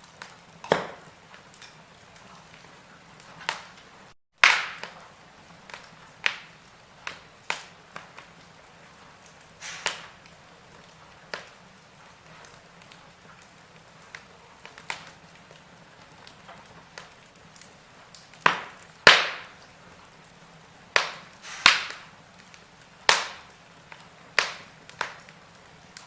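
Wood fire burning in a fireplace, crackling with irregular sharp pops and snaps over a faint steady hiss. The sound cuts out completely for a moment about four seconds in.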